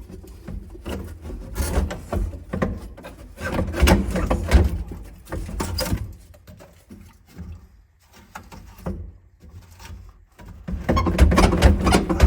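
Irregular knocks, clanks and rustling of hand work with tools and parts on an old truck's body, easing off for a few seconds past the middle before picking up again near the end.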